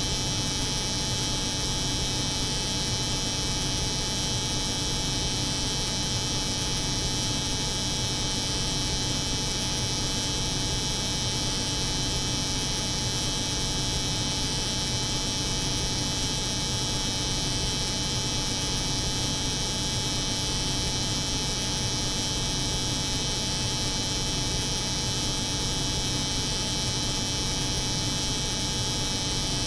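Electric hair clipper buzzing steadily, layered over the constant hum of a cold room's refrigeration machinery; a low drone with a bright hiss on top, unchanging throughout.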